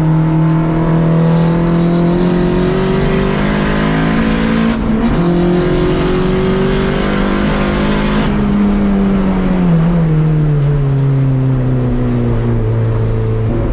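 Volkswagen track car's engine under load on a lap. Its pitch climbs over the first few seconds, steps briefly about five seconds in, rises again to a peak near eight seconds, then drops steadily as the car slows and settles at lower revs.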